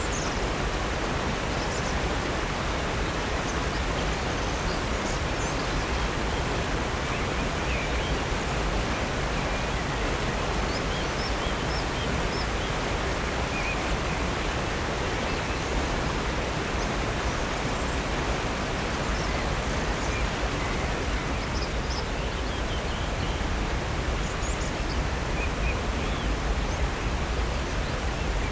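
Steady rushing of falling and flowing water at Upper North Falls on Silver Creek, an even, unbroken roar. Faint short bird chirps come through now and then.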